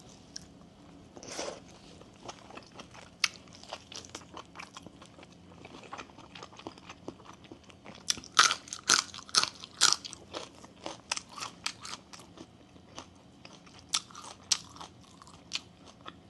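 Close-up chewing and crunching of a mouthful of Thai bamboo-shoot soup (sup no mai): many short wet crunches and mouth clicks. There is a louder run of crunching about eight to ten seconds in.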